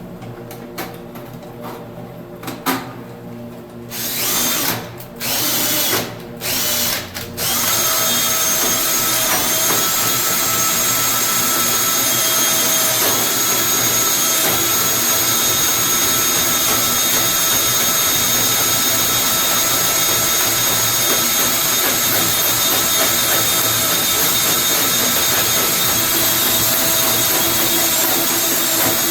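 A few handling clicks, then a powered drain snake's motor started in three short bursts and then running steadily as the cable is driven down the clogged sink drain.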